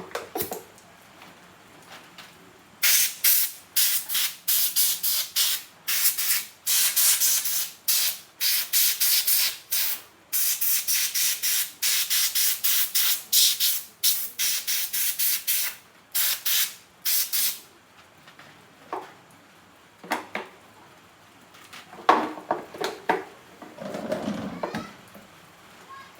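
Many short hissing bursts of spray in quick succession, each lasting well under a second, which stop about two-thirds of the way through. A few knocks and a brief clatter follow near the end.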